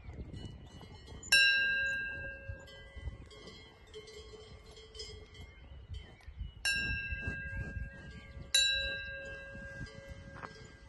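Cowbells on grazing dairy cows ringing. There are three clear strikes, about a second in, past the middle and again shortly after, each ringing on and slowly fading over a low rumble.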